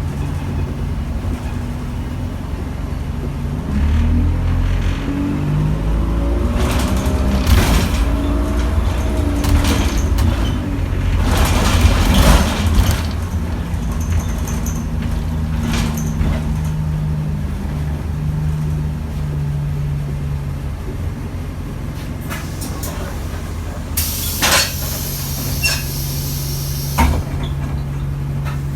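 London bus DE20195's diesel engine pulling away and climbing in pitch, then running steadily. About 24 s in, a sudden loud hiss of compressed air lasts a few seconds.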